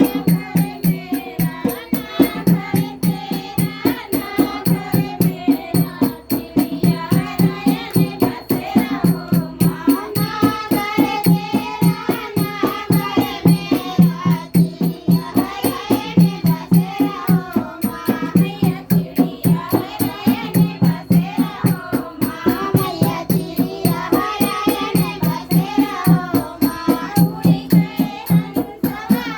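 Hindi devotional folk song sung to a dehati dholak, with an even drum beat of about three strokes a second and a jingling percussion under the singing voices.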